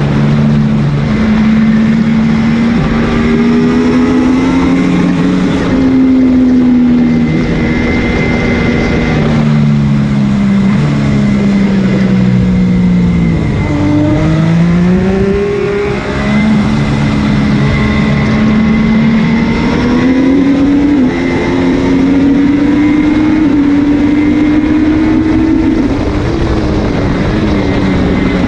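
MV Agusta F3's three-cylinder engine at race pace, heard from on the bike: revs climb in steps through upshifts, fall sharply with quick downshifts about halfway through, then rise again out of the corner. A steady rush of wind noise runs under the engine.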